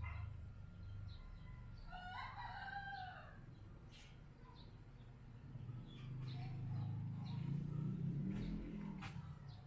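A bird calls once, a pitched, wavering, falling call about a second long, some two seconds in, over a steady low background rumble.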